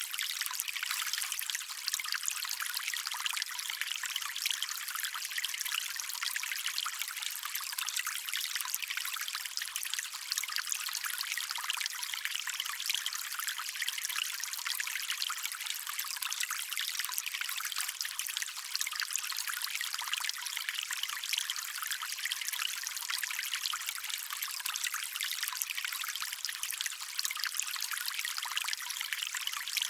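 Shallow stream water trickling and splashing steadily, a bright even burble with no deep rush.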